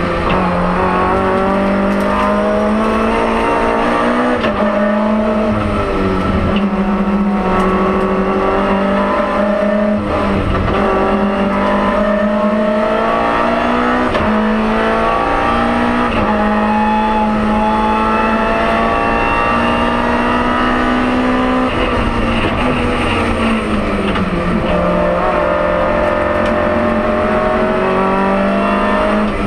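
BMW M3 E30 Group A rally car's four-cylinder engine, heard from inside the cabin, running hard on a twisty stage. The pitch climbs through each gear, dips at every upshift and falls away under braking into corners, over and over.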